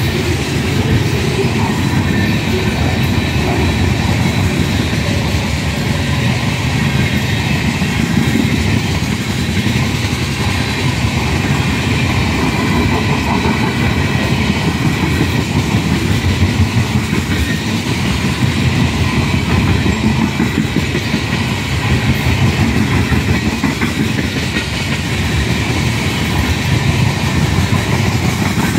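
Freight train of tank cars rolling past, a steady rumble of steel wheels on rail.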